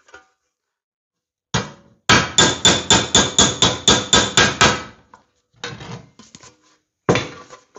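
Hammer blows on a 20-gauge sheet-steel panel edge worked over a bar and die. There is one blow, then a fast run of about sixteen ringing strikes, about six a second, then a few lighter taps and a single blow near the end. The panel edge is being squared up.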